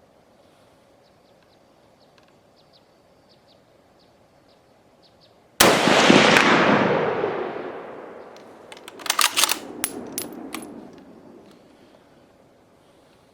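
A single shot from a Mosin-Nagant 91/30 rifle in 7.62×54R, a sudden loud crack whose echo rolls away over about three seconds. A few seconds later comes a quick run of sharp metallic clicks and clacks as the bolt is worked to eject the spent case and chamber the next round.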